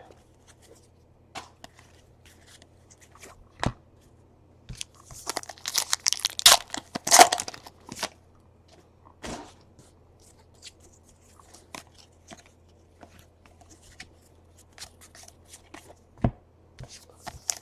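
Plastic wrapper of a 2017 Donruss Baseball card pack torn open and crinkled in a burst about five seconds in, with scattered small clicks and taps of cards being handled.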